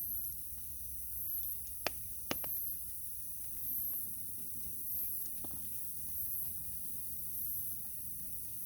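Wood fire crackling in a small camp wood stove, with two sharp pops close together about two seconds in and fainter ticks, over a steady hiss.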